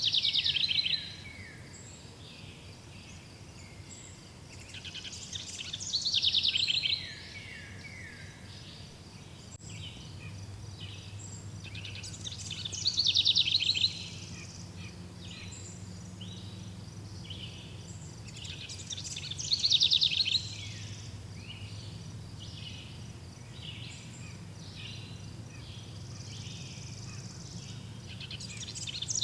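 Wild birds singing: one bird repeats a loud, descending trilled phrase of about a second and a half roughly every seven seconds, with softer chirps and calls from other birds in between. A steady low hum runs underneath.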